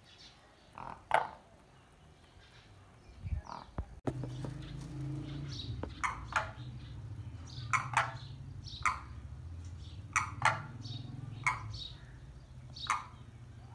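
Birds chirping: short, sharp calls, a couple near the start, then repeating about once or twice a second from about five seconds in, over a steady low hum that begins about four seconds in.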